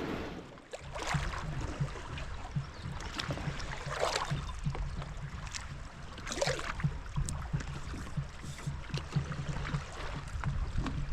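Canoe paddles dipping and pulling through moving river water, with splashes every second or two over a steady low rumble.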